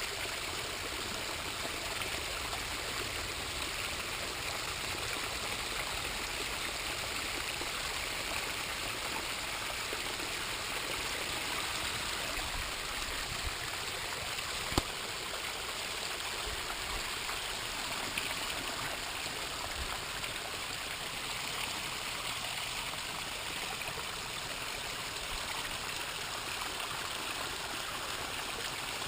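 Water from a pondless waterfall splashing and trickling steadily over rocks, with a single sharp click about halfway through.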